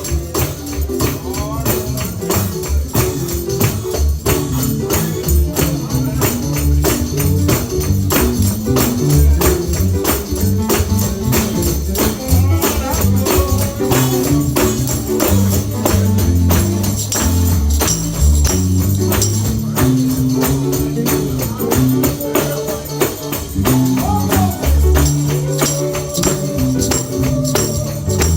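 Live gospel music with a tambourine shaken on a steady beat over a bass line, with some singing.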